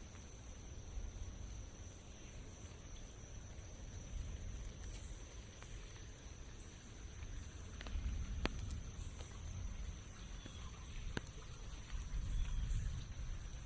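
Light rain in a forest, a soft even patter, with a steady high-pitched whine over it and a low rumble that swells near the end. Two sharp clicks stand out, about eight and eleven seconds in.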